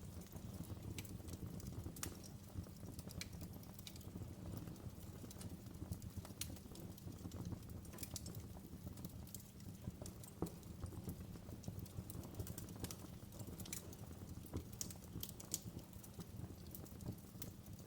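Wood fire in a fireplace crackling: irregular sharp pops and snaps, several a second, over a low steady rumble of the burning.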